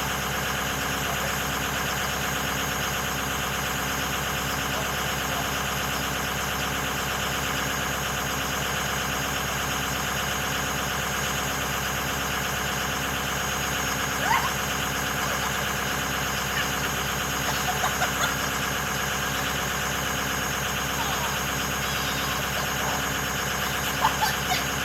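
Ford 6.0 L Powerstroke turbo-diesel V8 idling steadily as it warms up after a cold start. A few short chirps sound over it about halfway through and again near the end.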